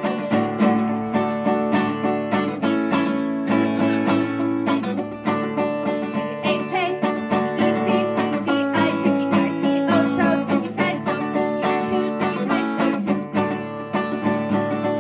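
Instrumental acoustic string-band music: strummed guitar with plucked, banjo-like notes over a steady beat.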